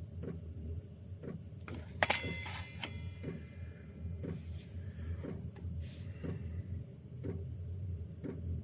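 Chinese diesel heater in start-up, its fuel dosing pump ticking roughly once a second over the steady hum of the heater's fan, before the burner has ignited. A louder metallic click rings out about two seconds in.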